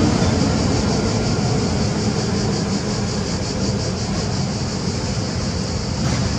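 A freight train's wagons rolling past on the rails: a steady rushing rumble that eases slightly.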